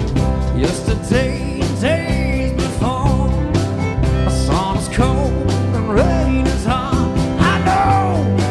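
Live band playing a country-rock song, with a steady drum and bass beat under a melodic lead line that slides and bends in pitch.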